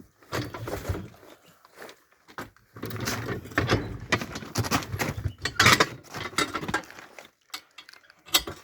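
Tyre being worked off a wheel rim by hand with tyre levers: irregular scrapes and knocks of metal levers against the rim and the rubber bead.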